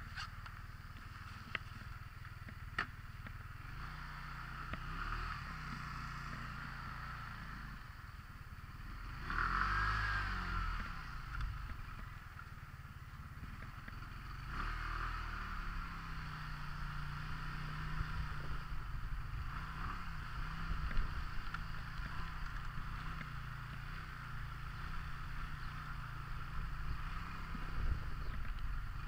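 Scooter engine running while riding, its low drone shifting in pitch with speed, over road and wind noise. There is a louder swell about ten seconds in, and the engine picks up again about fifteen seconds in.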